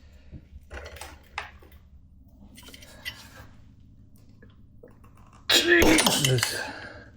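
A few faint metallic clicks of a spanner being fitted, then quiet effort, and about five and a half seconds in a sudden loud strained grunt from a man heaving on a spanner to break a seized part loose.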